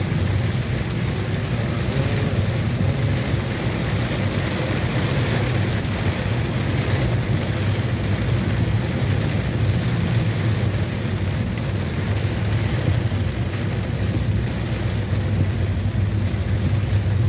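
Heavy rain pouring down over the steady low rumble of a vehicle on the move.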